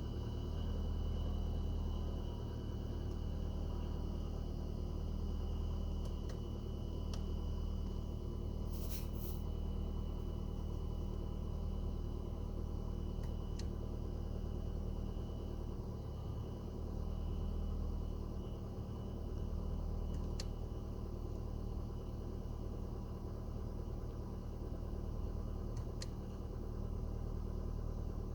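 Renault Kaptur's 1.6-litre H4M four-cylinder petrol engine idling steadily just after a cold start in about −25 °C frost. A few faint clicks come over the hum, the clearest about nine seconds in.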